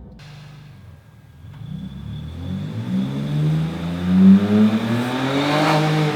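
Next-gen Ford Ranger Raptor's twin-turbo V6 accelerating under load in second gear, its exhaust in sports mode through an aftermarket mid pipe and muffler. After a quiet first second the engine note climbs steadily in pitch to near the end, loudest about two-thirds of the way through.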